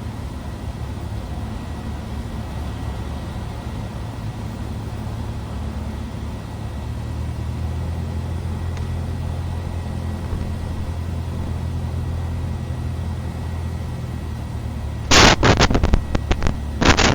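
Cessna 172R's four-cylinder Lycoming engine and propeller droning steadily in flight, heard from the cockpit. Near the end come a few short, loud bursts of noise.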